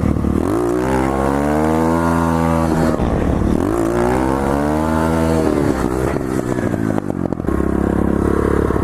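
Motorcycle engine accelerating hard: the pitch climbs for a couple of seconds, then drops sharply as the throttle is shut, twice in a row. After that it settles into steadier running at lower revs.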